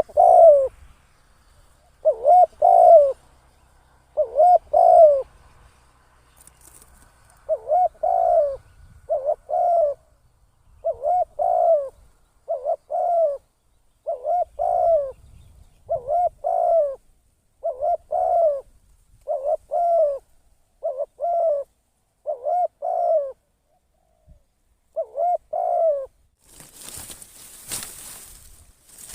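Decoy spotted dove cooing over and over in short, rounded phrases about a second apart, with a couple of brief breaks. Near the end there is a few seconds of rustling noise.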